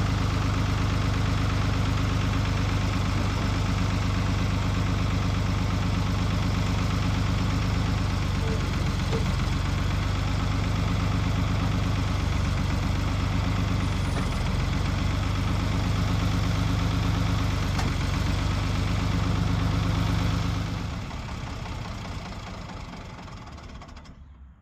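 1973 Ford 4500 backhoe's diesel engine running steadily, then shut off about twenty seconds in and dying away over a few seconds.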